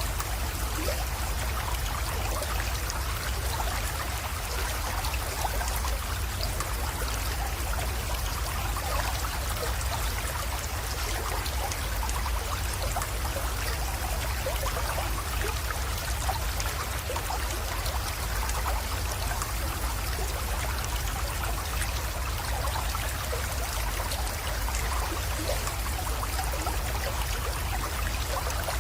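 Water of a small creek running and trickling steadily, with many small splashes and a low steady rumble beneath.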